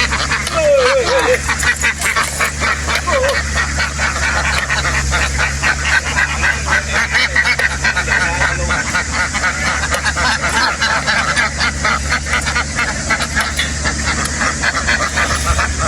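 A large flock of domestic ducks quacking in a dense, unbroken chorus, over a steady low engine hum.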